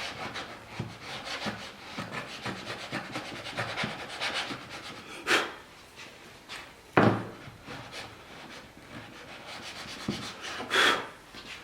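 Hand tool scraping and shaving wood in many short, quick strokes, then a few separate longer scrapes, with one sharp wooden knock about seven seconds in.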